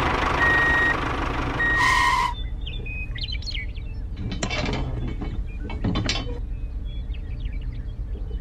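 Reversing-alarm beeps over a hiss, cutting off about two seconds in. Then birds chirping, with a couple of sharp clicks, over a steady low rumble.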